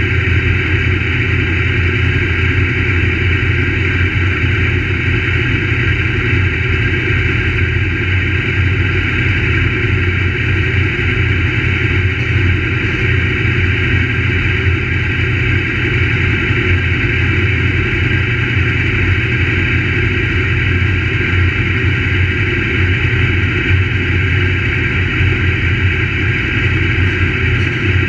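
Crate late model race car's V8 engine running at a steady, unchanging pitch, with no revving up or down.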